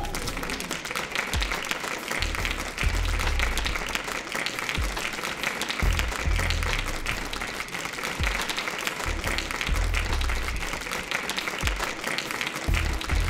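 Crowd applauding, a dense patter of claps, over background music with a low pulse.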